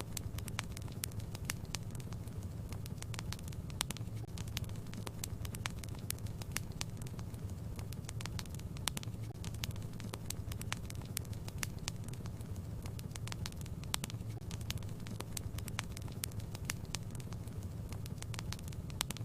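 Wood fire burning in a fireplace, with a steady low rumble and many irregular sharp crackles and pops.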